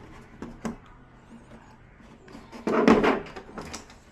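Light clicks and knocks of TV parts being handled during a teardown, with one louder noisy burst lasting about half a second about three seconds in.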